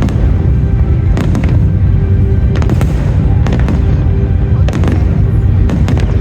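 Display fireworks going off in a rapid series of sharp bangs over a constant heavy low rumble, with loud music for the show underneath.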